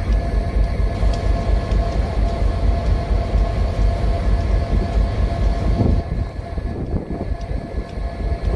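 Freight train on the move: a steady low rumble with a constant hum over it and faint ticks, easing a little about six seconds in.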